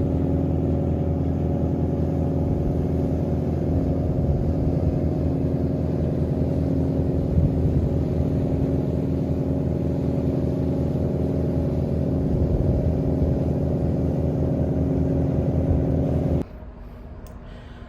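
Deep, steady drone of a large engine, an unchanging hum with no change in pitch, that cuts off suddenly near the end.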